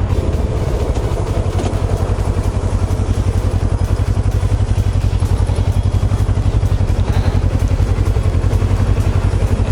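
A 2006 Kawasaki ER-6n's parallel-twin engine running steadily while riding, with an even, fast pulsing beat.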